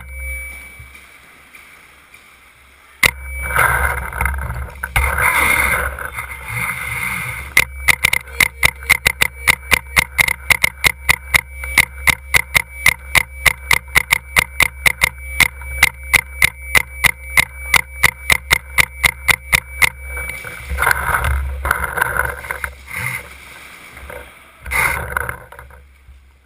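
Paintball marker firing a long rapid string of shots, about four a second for some twelve seconds. A steady low rumble runs underneath, with louder bursts of noise before and after the string.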